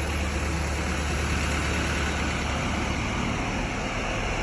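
A vehicle engine running steadily with a low hum, under a constant rushing noise; the hum fades about three seconds in.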